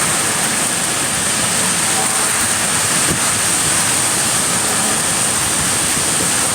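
Steady, loud rushing noise of hurricane weather, rain and wind, with no breaks or distinct events.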